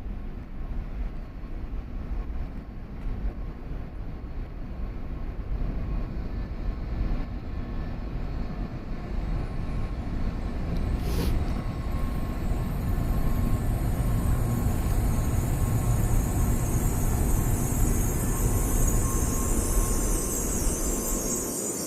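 Sanyo Shinkansen train approaching: a low rumble grows steadily louder, and a high-pitched hiss joins it about halfway and keeps building. There is a single sharp click just before the hiss starts.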